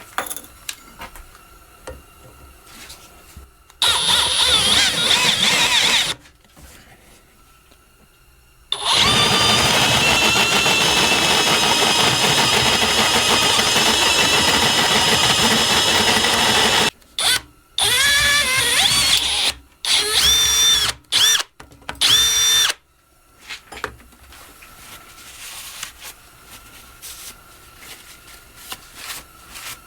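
Handheld electric drill boring holes through steel plate, run in two long stretches, then in a string of short trigger bursts whose motor whine rises and falls.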